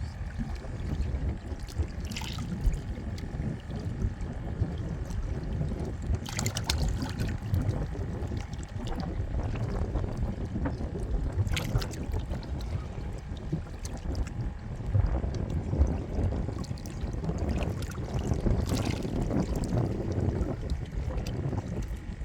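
Steady rumbling wash of inlet water moving over jetty rocks, with a few short sharp clicks scattered through it.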